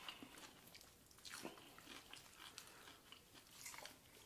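Faint close-up eating sounds: people biting and chewing crunchy fried chicken and a chicken burger, with a few soft crunches about a second and a half in and again near the end.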